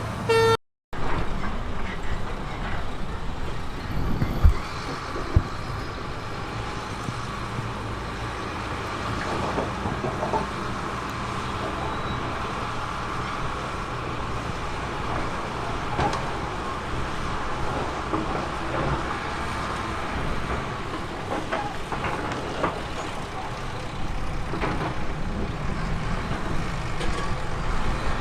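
Heavy diesel construction machinery running steadily, with a few sharp knocks a few seconds in. The sound cuts out briefly less than a second in.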